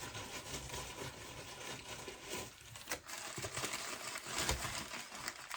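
Packing material rustling and crinkling as hands unwrap stones from a box, with scattered light clicks and one sharper click about three seconds in.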